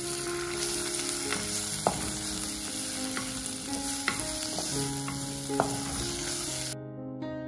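Sliced onion, garlic and green chilies sizzling in hot oil in a clay pot, stirred with a flat spatula that knocks against the pot several times. The sizzle cuts off suddenly near the end.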